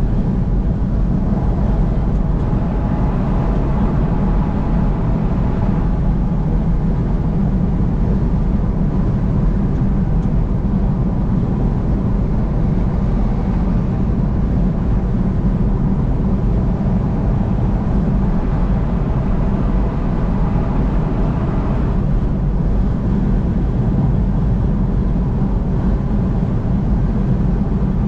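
Steady road and tyre noise of a car driving at highway speed, a constant low rumble with a faint steady whine.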